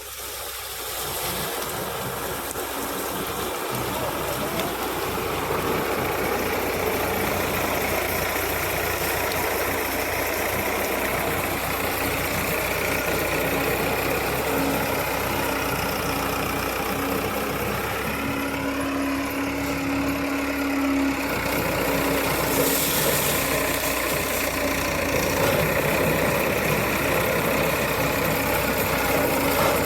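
Sugarcane harvester's engine running steadily, getting louder over the first few seconds and then holding at a constant level with a steady hum.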